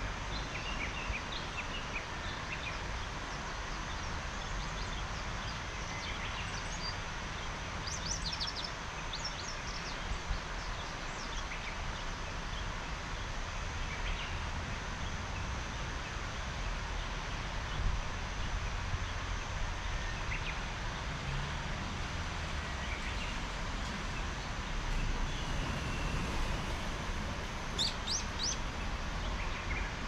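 Small birds chirping now and then over a steady background hiss and low rumble. A quick run of high, sharp calls comes about eight seconds in and again near the end.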